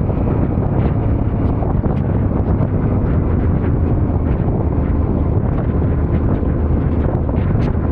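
Yamaha Ténéré 700's parallel-twin engine running steadily while riding, under a heavy rush of wind on the microphone, with occasional light ticks.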